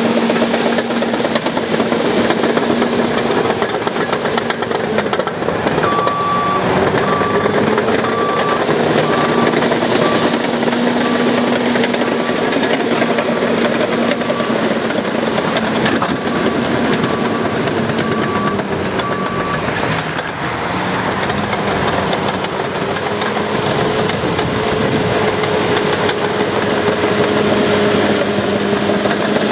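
Heavy construction machinery engines running under load, their pitch rising and falling, with a reverse backup alarm beeping about once a second for some thirteen seconds in the middle.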